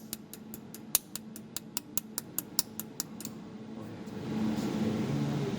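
A 200 W jewelry laser welder firing repeated pulses, each a sharp click, about five a second; the clicks stop a little after three seconds in. Near the end a low steady hum comes up.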